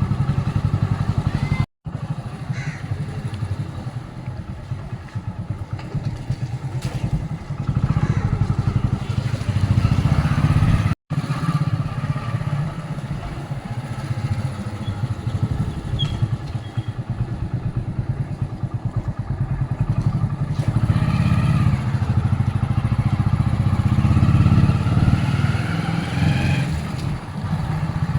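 Motorcycle engine running steadily under way, a low, rapid throb. The sound drops out for an instant twice, about two seconds in and about eleven seconds in.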